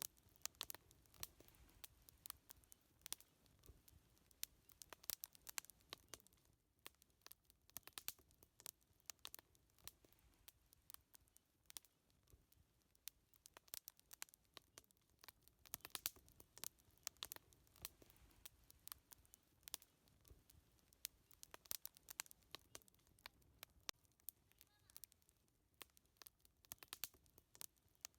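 Wood fire crackling faintly, with irregular sharp pops and snaps throughout.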